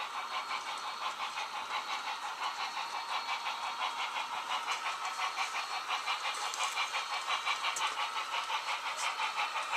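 HO-scale model train running on the layout: a steady, rhythmic mechanical clatter at about four to five beats a second.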